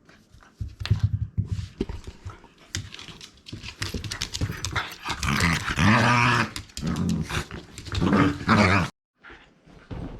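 Shiba Inu play-growling and grumbling as she attacks a ball, the growls loudest in the second half, over a scatter of sharp knocks and scuffles from the scuffle with the ball.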